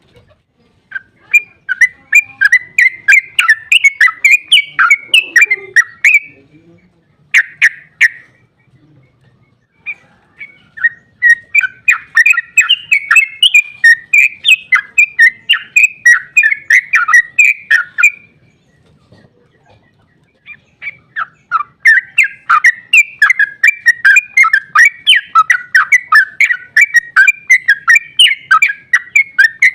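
Yellow-vented bulbul (trucukan) singing long runs of its rapid chattering song, several notes a second. There are three bouts, with pauses of a few seconds between them and a short burst near a third of the way in.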